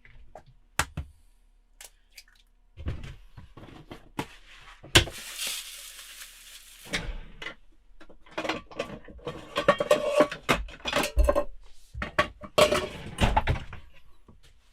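Kitchen clatter of pots, pans and utensils being handled: repeated knocks and clinks, with a hissing rush lasting about two seconds some five seconds in.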